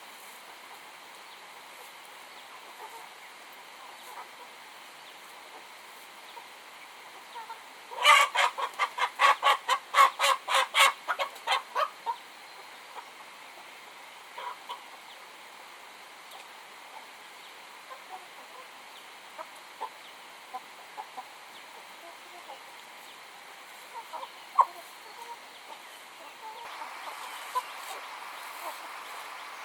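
Domestic chickens clucking: a fast run of loud clucks, about four a second, starts about eight seconds in and lasts some four seconds, followed by scattered soft single clucks.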